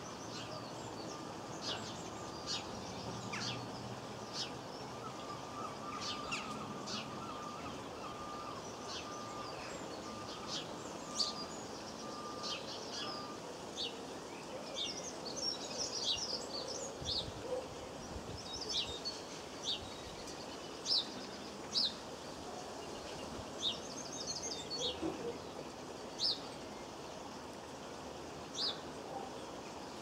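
Small garden birds calling: short, sharp high chirps scattered irregularly throughout, over a steady background hiss.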